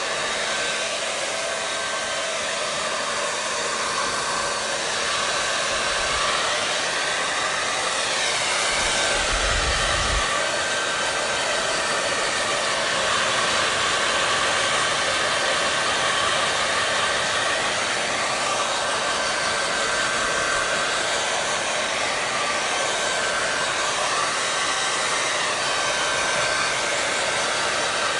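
Hair dryer running steadily: a dense, even rush of air with a faint steady whine, its tone shifting slowly now and then. A brief low rumble comes about ten seconds in.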